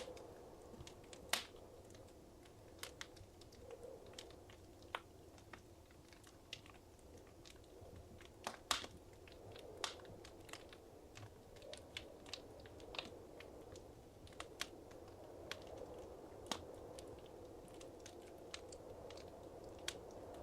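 Wood fire crackling in a fireplace: scattered sharp pops and snaps at irregular intervals over a soft, low hiss, with a couple of louder pops.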